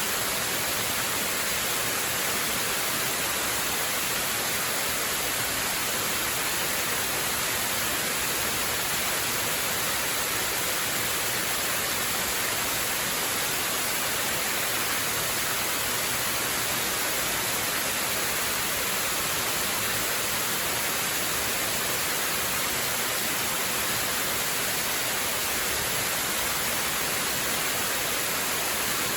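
Waterfall: water falling steadily in an even, unbroken hiss with no pauses or separate events.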